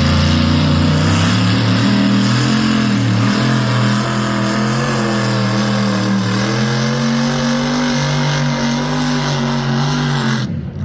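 A V8 pulling tractor's engine running loud and sustained, its pitch wavering a little, dipping about midway and climbing again; it cuts off abruptly near the end.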